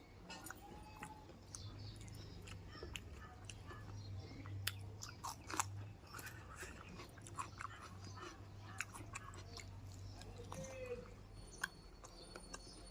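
A person chewing food close to the microphone: irregular wet mouth clicks and smacks with an occasional crunch. A low steady hum runs underneath and stops near the end.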